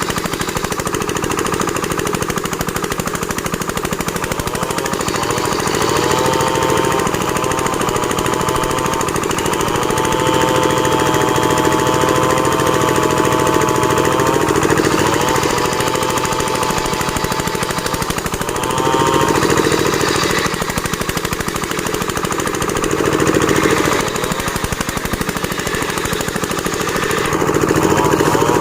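An engine-driven board-making (plank-sawing) machine running with a fast, even chugging beat. A whining tone over it dips in pitch and recovers several times.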